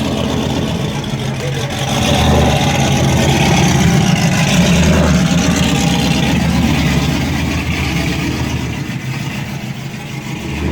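A vehicle engine running under throttle, growing louder about two seconds in and slowly fading toward the end.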